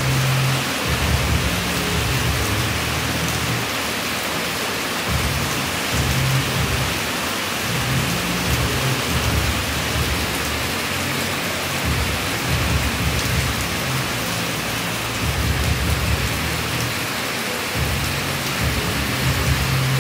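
Heavy pouring rain, a dense steady hiss, with a low rumble underneath that comes and goes every few seconds.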